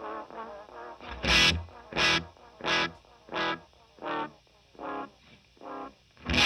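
Electric guitar, a Gretsch White Falcon, through a Benson Delay pedal: the wavering, out-of-tune tail of a modulated note dies away, then a single picked note echoes about every 0.7 seconds, each repeat quieter than the last. A fresh note is struck near the end and starts a new train of echoes.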